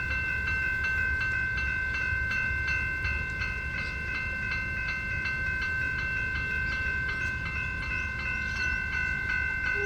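Two General Signal level-crossing bells (an adjusted type 1 and a type 3) ringing continuously with rapid, evenly repeated strikes as the crossing warns of an approaching train. A low rumble sits underneath.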